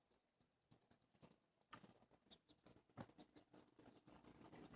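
Near silence, with faint scattered clicks, two a little more distinct at about two and three seconds in.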